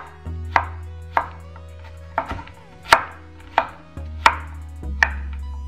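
Knife chopping zucchini into cubes on a wooden cutting board: a steady series of sharp knocks, about seven, roughly one every two-thirds of a second, as the blade cuts through onto the board.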